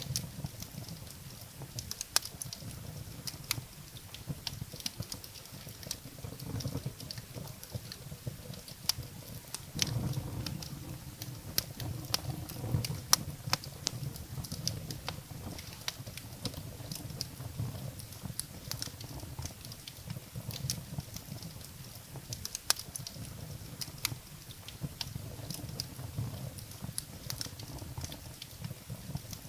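Wood fire burning in a fireplace: irregular crackles and sharp pops from the burning firewood over a low rumble of the flames, the rumble swelling for a few seconds near the middle.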